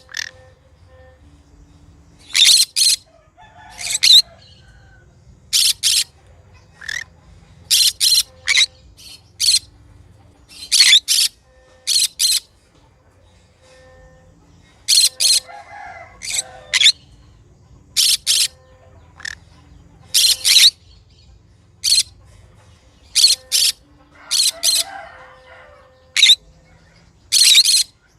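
Green conure giving short, shrill, high-pitched calls, mostly in quick pairs or triplets, repeated every second or two.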